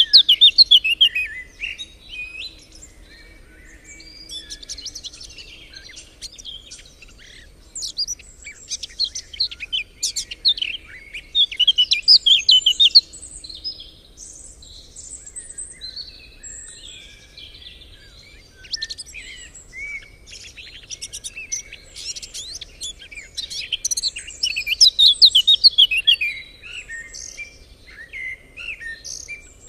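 Songbirds singing, rapid chirps and trills coming in loud bursts with quieter stretches of scattered calls between them.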